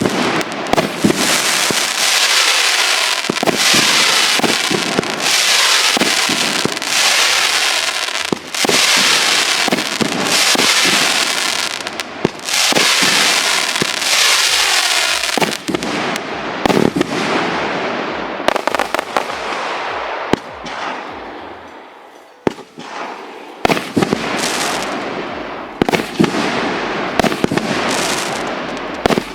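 A 110-shot consumer fireworks cake with 1.75-inch tubes firing a dense, continuous barrage of launches and shell bursts with a bright hissing crackle. About two-thirds of the way through it briefly thins out and nearly dies away, then picks up again with sharp bangs.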